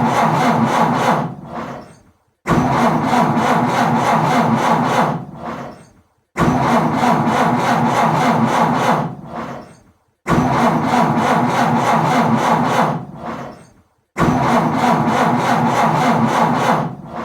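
Car engine cranked by its starter motor without catching, in repeated attempts: each is about three seconds of fast, even cranking that starts abruptly, winds down and stops, then a brief pause before the next. The engine fails to start.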